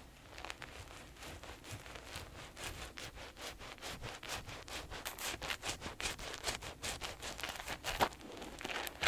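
Hands rubbing and working foamy soap lather: a dense run of quick, wet crackling strokes, with one louder stroke near the end.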